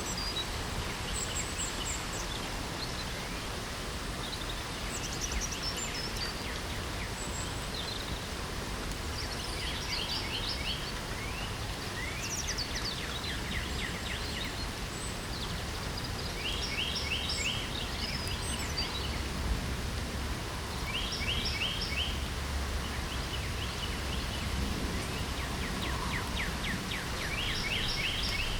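Steady hiss of spring rain with songbirds singing over it: short, fast trills of quick falling notes recur every few seconds, with a few brief high chirps between them.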